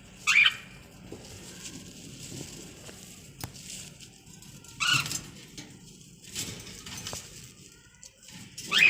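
Pet bird calling: three short, loud, sharp calls, each sweeping up in pitch, about four seconds apart.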